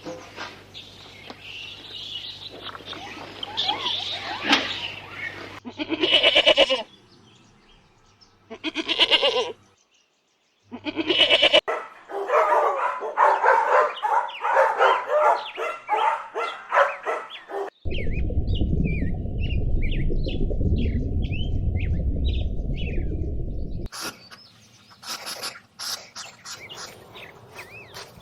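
Several different animal sounds cut one after another: a few short, loud calls over the first dozen seconds, then a dense run of many overlapping calls. That gives way about eighteen seconds in to a low rumble lasting about six seconds, and quick chirps follow near the end.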